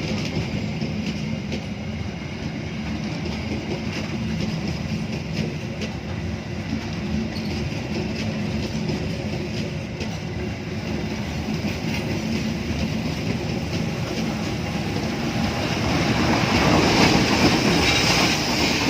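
A train rolling past on the track, its wheels clacking over the rail joints in a steady stream of clicks, growing louder near the end.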